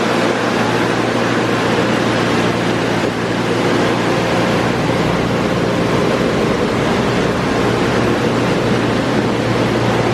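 Mark VII AquaJet XT touchless car wash running, heard from inside the car: a loud, steady rush with a constant hum and a steady mid-pitched tone from its motors.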